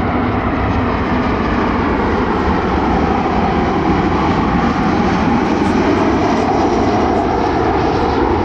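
Jet airliner engines on or near the runway: a loud, steady rushing noise that grows a little fuller midway.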